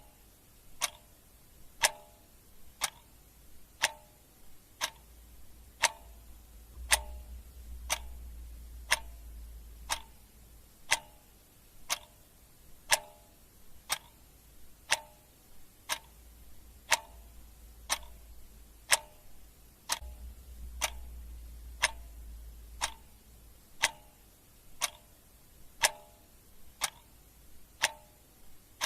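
Clock ticking steadily, about one tick a second, as a timer's ticking sound effect.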